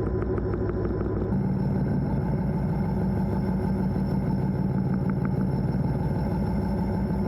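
EMD diesel locomotive's two-stroke engine running steadily, heard from inside the cab. Its note changes about a second in, taking on a stronger low drone, and shifts back at the end. Light clicks sound now and then over it.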